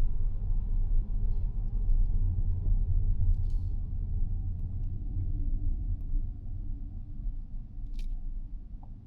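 Low road and tyre rumble of a Mazda 6e electric sedan on the move, easing off over the last few seconds as the car slows. A couple of faint clicks can be heard over it.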